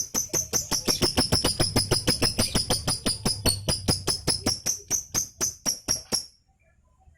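Lovebird 'ngekek': a long run of rapid, evenly repeated high chattering notes, about six or seven a second, which stops abruptly about six seconds in. The song is smooth ('alus') and comes from a beginner bird that is still learning it.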